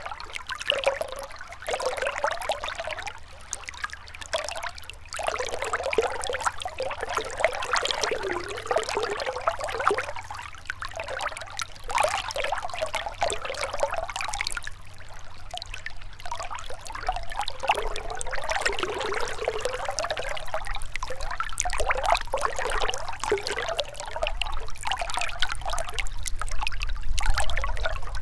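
Shallow river water running and splashing over rocks, an uneven babble that swells and ebbs every second or two. A low rumble builds underneath toward the end.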